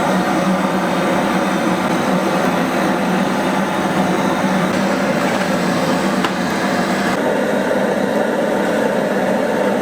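A steady machine hum with a rushing noise over it, unchanging throughout.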